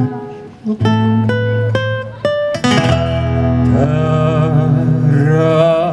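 Acoustic guitar accompanying a song: single plucked notes at first, then from about three seconds in, long held notes with a slight waver over the guitar.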